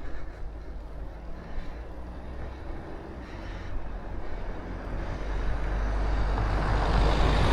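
Wind rumble on the microphone of a moving road bicycle, with a rush of noise that grows steadily louder over the last few seconds.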